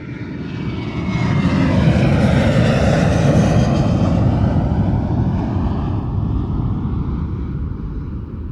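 Jet airliner engine sound passing by: a loud rush that builds over the first couple of seconds, peaks, then slowly fades, with high whining tones that slide down in pitch as it goes past.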